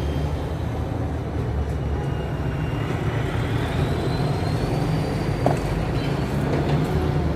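Steady low rumble of road traffic, with a faint thin tone slowly gliding upward through the middle and one short click about five and a half seconds in.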